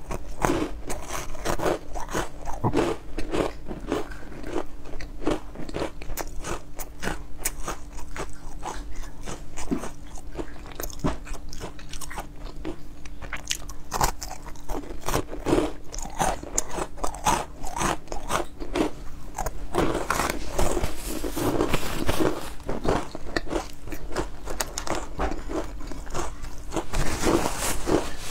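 Close-up crunching and chewing of crisp, crunchy food: irregular sharp crackly bites and chews, coming thickest in bursts about twenty seconds in and again near the end.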